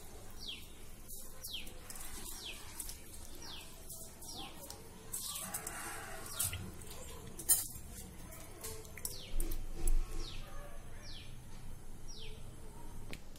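A bird calling over and over, a short high chirp that falls in pitch, repeated about once a second. A sharp click comes past the middle and a few low bumps follow a little later.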